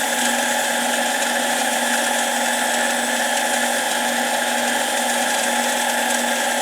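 Mini lathe running at a steady speed, its motor giving a constant whine with a hiss, while a spinning metal part is deburred.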